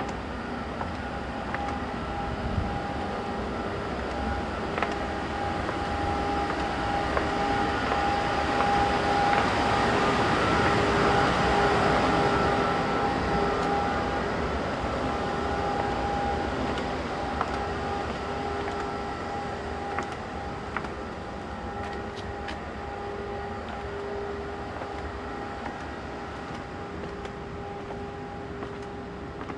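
A steady mechanical hum with two fixed tones over a rushing noise. It builds to its loudest about halfway through, then slowly fades.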